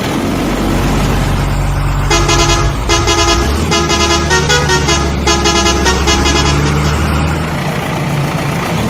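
Truck engine running with a low, steady hum, and a multi-tone musical truck horn sounding a quick run of short notes that change in pitch from about two seconds in to about seven seconds in.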